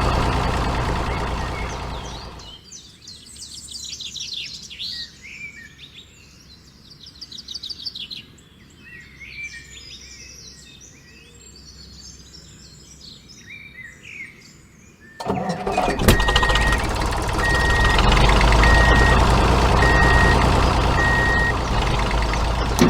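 A vehicle motor running, cut off about two and a half seconds in; birds chirping for about twelve seconds. Then the motor noise resumes abruptly with five reversing beeps about a second apart.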